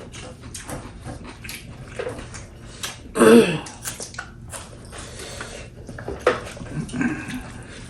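Close-up eating sounds from a mukbang: chewing, lip smacks and small mouth clicks, with one short loud vocal cry falling in pitch about three seconds in.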